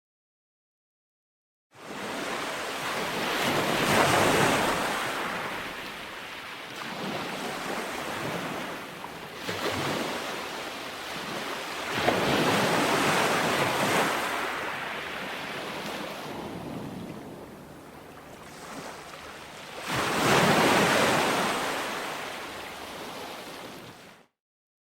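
Ocean waves breaking and washing onto a beach, swelling and falling back several times, with the loudest surges near the middle and toward the end. It begins after about two seconds of silence and cuts off suddenly shortly before the end.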